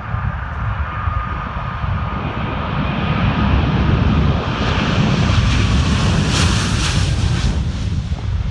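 Jet airliner passing close by, its engines' rumble and whine swelling to a peak about six to seven seconds in, then beginning to fade.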